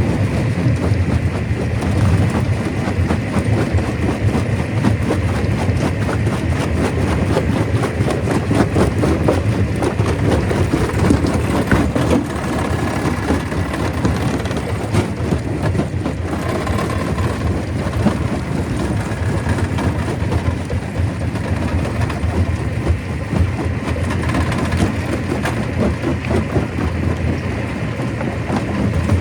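Stone crusher running under load, crushing rock: a steady heavy rumble with a continuous dense rattle of stone knocking and breaking.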